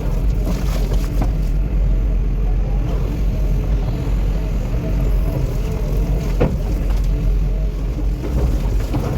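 A vehicle engine running steadily with a continuous low rumble, and a single sharp knock about six and a half seconds in.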